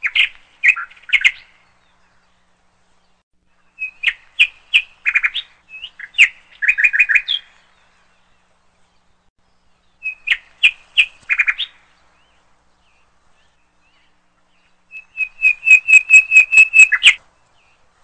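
A bird chirping in four bursts of quick, high, repeated notes with short pauses between them. The last burst, near the end, is a rapid run of about a dozen notes.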